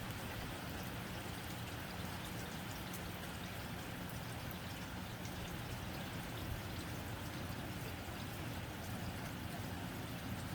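Steady, gentle rain on a tin roof: an even hiss dotted with many small ticks of drops striking the metal.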